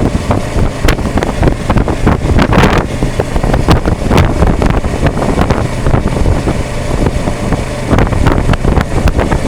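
Heavy wind buffeting on an action cam's built-in microphone while riding a Kawasaki Versys 650 at about 30 mph, with the bike's parallel-twin engine running steadily underneath.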